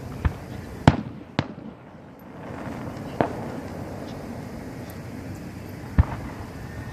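Professional 1.3G display firework shells bursting overhead: five sharp booms at uneven intervals, the loudest about a second in and another strong one near the end, over a steady background hiss.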